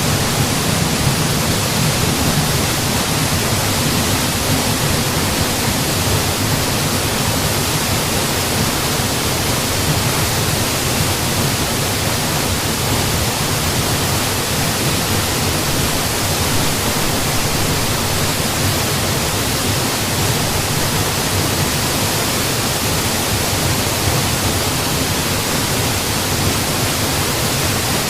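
Waterfall pouring in a steady, unbroken rush of falling water, with a low rumble beneath.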